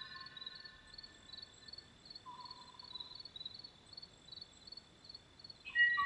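Kauaʻi ʻōʻō singing: clear whistled notes, one faint note about two seconds in and a louder phrase starting near the end. Behind them runs a steady high insect chirping, about two pulses a second.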